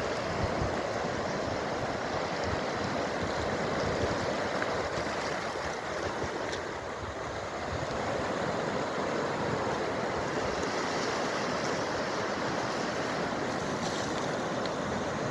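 Sea waves washing steadily, with some wind buffeting the microphone.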